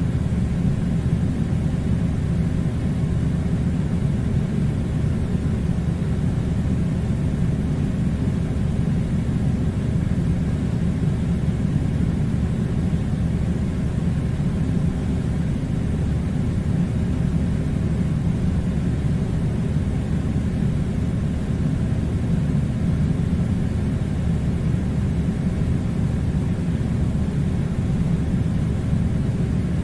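Steady low rumbling noise, even in level with no breaks or changes.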